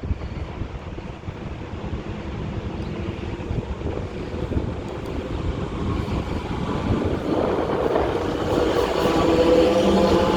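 Electric locomotives (an EP05 and an EP07) hauling a train as it approaches: a low rumble grows louder, and a hum of several steady tones joins it about seven seconds in.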